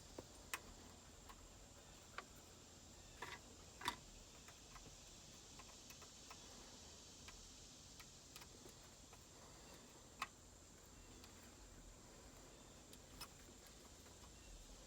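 Near silence with scattered faint clicks and taps from the aux cord and its connector being handled, the loudest about four seconds in and another about ten seconds in.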